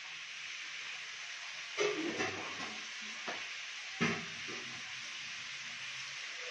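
Beans and potatoes frying in mustard oil in a steel kadhai, a steady sizzling hiss. A few knocks and clinks of steel utensils being moved on the counter come about two, three and four seconds in.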